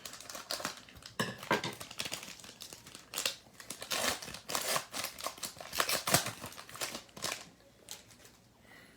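A trading card pack's wrapper being torn open and crinkled by hand, with a dense run of irregular crackles that dies down about seven seconds in.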